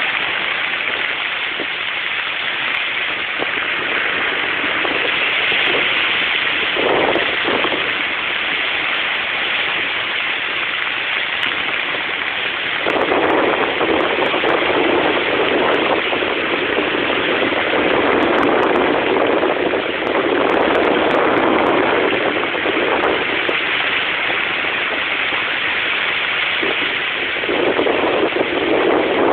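Rough sea surf: a steady rushing of waves, with louder surges as waves break, longest from just before the middle to about three quarters through and again near the end.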